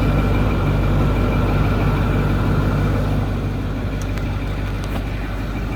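Ford bucket truck's engine idling steadily while it warms up.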